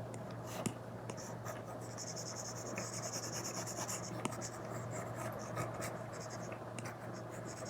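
Apple Pencil Pro tip scratching in short drawing strokes across an iPad's paper-like matte screen protector, with a few light taps of the tip. There is one longer continuous stroke about two seconds in.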